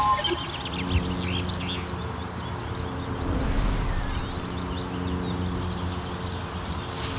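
Birds chirping and tweeting over a steady low hum, with a short sharp knock right at the start and a smaller one about a second in.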